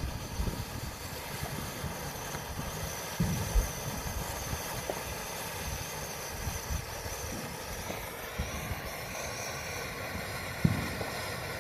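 Steady outdoor hiss with wind buffeting the microphone, and a few short low thumps about three seconds in and again near the end.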